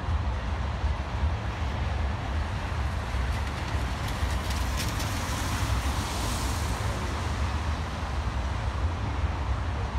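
Freight train of loaded oil tank cars rolling past, a steady low rumble of wheels on rail, with a few faint clicks about halfway through.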